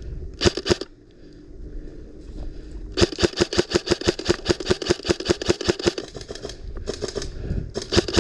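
Airsoft rifle firing on full auto in rapid clicking bursts: a short burst about half a second in, a long burst of about three and a half seconds from three seconds in, then two short bursts near the end.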